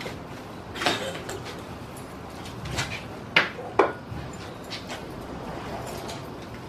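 A few sharp knocks and clatters of parts or tools being handled, the loudest two close together about three and a half and four seconds in, over a steady background hiss.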